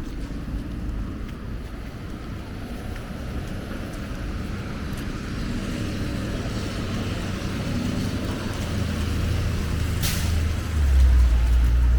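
Street traffic with a heavy vehicle, a bus or truck, coming close: a low engine rumble builds and is loudest near the end, just after a short sharp hiss about ten seconds in.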